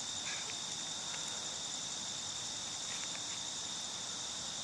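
Steady outdoor insect chorus, a continuous high-pitched trill, with a few faint ticks.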